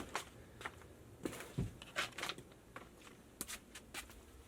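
Scattered light clicks and taps of tools and fittings being handled, with a dull knock about one and a half seconds in.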